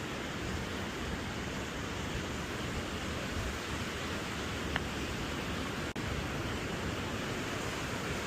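Steady rushing wind noise on the microphone of a bike-mounted camera while riding, with a single sharp click about six seconds in.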